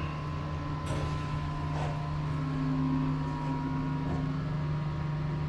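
A 1984 Metro station elevator travelling up between floors, its drive giving a steady low hum with a thin high tone above it. A faint click comes about a second in.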